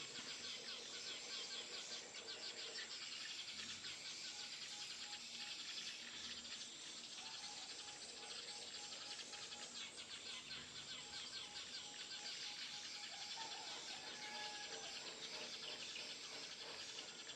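Dense, steady chirring of insects mixed with bird chirps, with a faint pulsing note through the middle.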